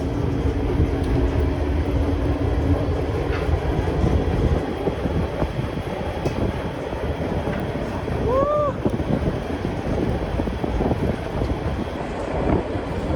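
White Pass Railway passenger train rolling along the track: a steady rumble and clatter of the coach and wheels, with one short squeal about eight seconds in.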